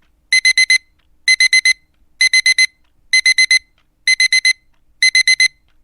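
Digital alarm clock beeping: quick bursts of four short, high beeps, repeating about once a second, six bursts in all.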